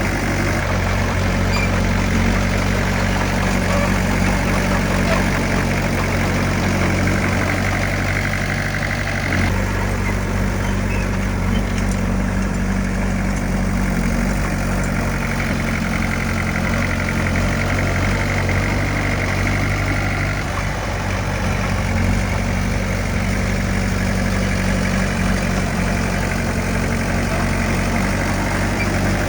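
Heavy earthmoving equipment's diesel engine running steadily, with its note shifting about a third of the way in.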